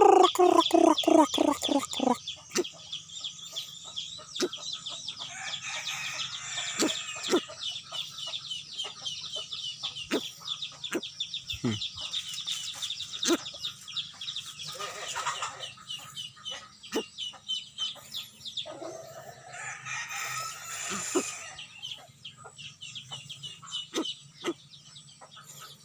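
Birds calling: a run of quick falling calls in the first two seconds, then continuous rapid high-pitched chirping with scattered sharp clicks.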